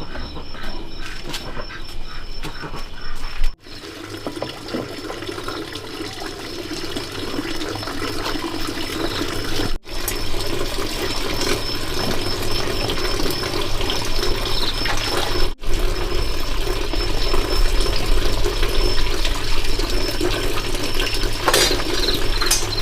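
Water running or splashing steadily, broken by sudden cuts every few seconds.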